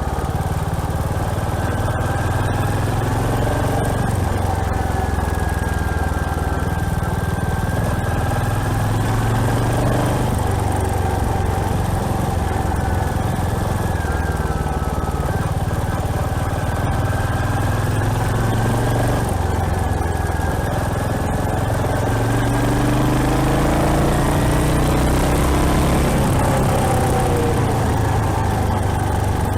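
Royal Enfield Hunter 350's single-cylinder engine running under way, its note rising and falling several times with throttle and gear changes, and pulling louder in the last third.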